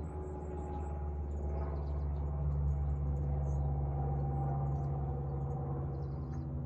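Faint, scattered bird chirps over a steady low hum that swells slightly midway.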